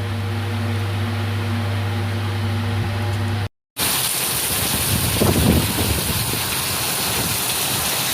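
A steady low electrical hum for about three and a half seconds, then, after a brief dropout, heavy rain falling as an even hiss, with a short rougher swell about halfway through the rain.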